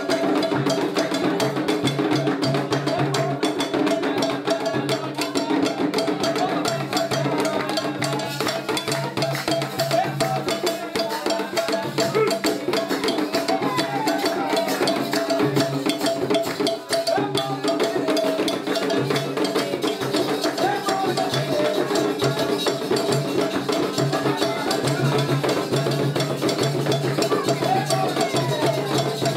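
Candomblé ritual drumming: hand drums and struck percussion keeping a dense, steady rhythm, with sustained tones and voices over it.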